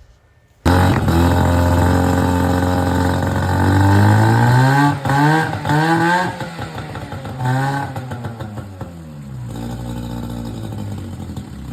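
Small 6-horsepower Johnson two-stroke outboard motor, its once-seized engine running: it comes in suddenly under a second in, is revved up and down several times, then settles back to a steadier, quieter idle near the end.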